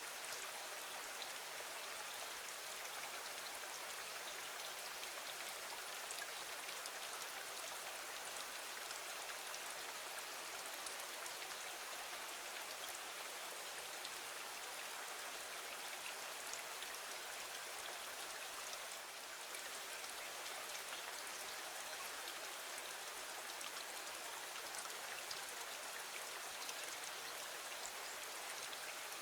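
Steady rain falling against a window: an even hiss with many small drop ticks.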